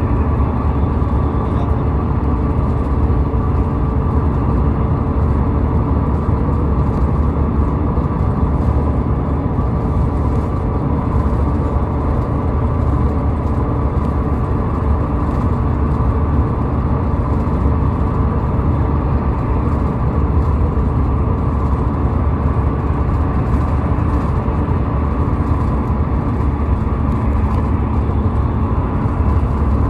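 Steady car and highway traffic noise, a continuous low rumble of engines and tyres on the road with no sudden events.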